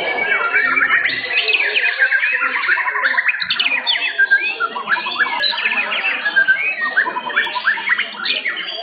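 Several white-rumped shamas (murai batu) singing at once: a dense, overlapping tangle of rapid, varied whistles, up- and down-sliding notes and chirps.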